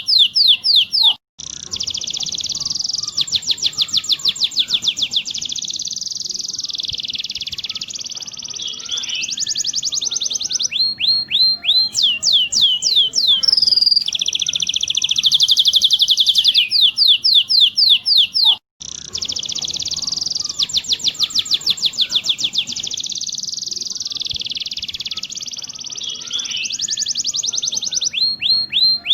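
Domestic canary singing a long, loud song of fast rolling trills and quick sweeping notes. The song stops for a moment about a second in and again about two-thirds of the way through, then the same run of phrases starts over.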